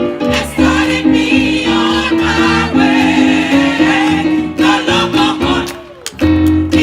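Gospel choir singing with instrumental accompaniment: held sung notes over a moving bass line and a steady beat, dipping briefly near the end.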